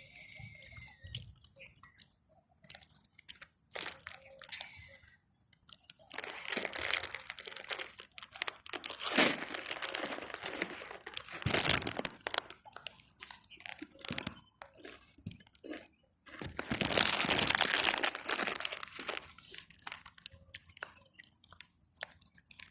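Plastic potato chip bag crinkling as it is handled, in two long spells, the second one short and loudest; between them, small crunches of cats eating the chips.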